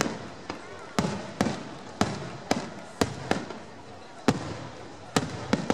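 Aerial firework shells bursting in quick succession: sharp bangs about two a second, uneven in loudness, each trailing off briefly.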